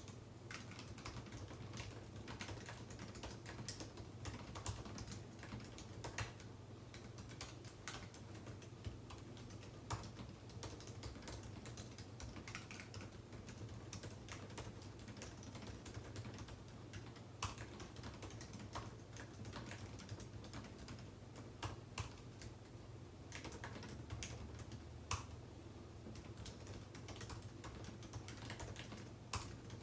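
Typing on a computer keyboard: a continuous, irregular patter of keystrokes with a few louder strokes, over a steady low hum.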